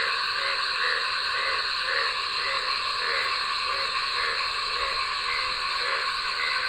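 Night chorus of frogs and insects: a steady, shrill trilling in several high pitches, with frogs croaking in a pulsing rhythm a few times a second.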